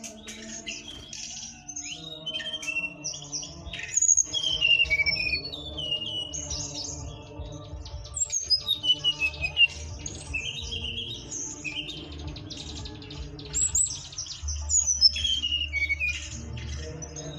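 A sridecit (flowerpecker) singing busily: rapid high chirps and quick rising and falling sweeps, almost without pause. Music with a steady bass line plays underneath.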